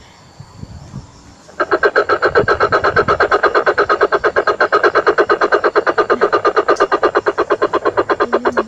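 Coucal (burung bubut) call played as a lure: a loud, rapid, even pulsing of about eight notes a second, starting about a second and a half in.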